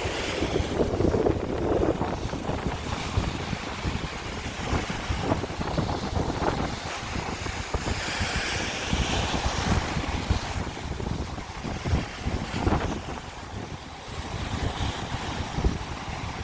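Sea waves breaking and washing on the shore, mixed with heavy wind buffeting the microphone in low rumbling gusts.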